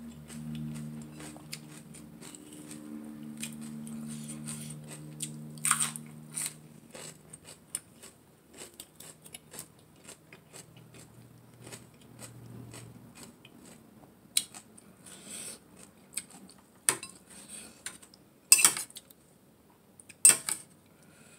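Close-up eating sounds: chewing and biting into crunchy raw carrot salad and sweet bell pepper, with sharp clicks of a fork and fingers against the plate. A low steady hum runs through the first several seconds.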